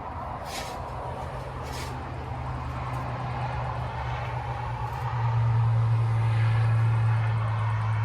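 A steady low engine drone that grows louder about five seconds in, with two short hissy sounds near the start.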